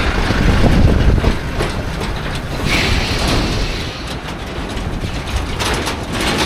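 Heavy trucks passing on the road, a low engine and tyre rumble with some rattling clatter near the end.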